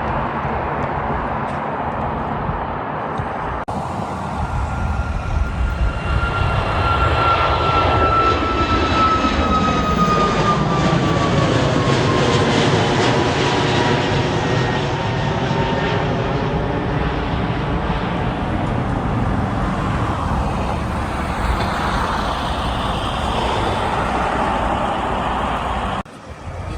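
Jet airliner passing close by: a steady engine rumble with a high whine that slides slowly down in pitch as it goes past, loudest about a third of the way in.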